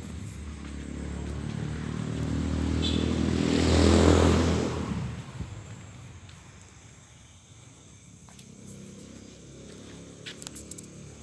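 A road vehicle passing close by: its engine and tyre noise swell to a peak about four seconds in and fade away by about six seconds.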